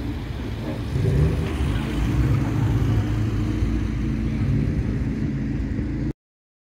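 Classic Mini's four-cylinder A-series engine and exhaust running low as the car drives slowly past, getting louder about a second in, then cutting off suddenly near the end.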